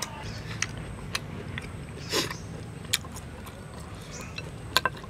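Close-up eating sounds: chewing with scattered sharp wet mouth clicks and smacks, and a short breathy puff about two seconds in, over a steady low hum.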